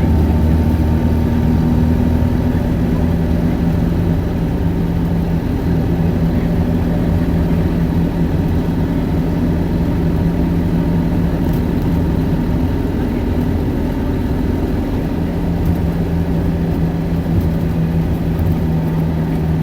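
Isuzu Erga 2KG-LV290N2 city bus heard from inside the cabin: its four-cylinder diesel engine runs at steady, moderate revs, with a low, even rumble.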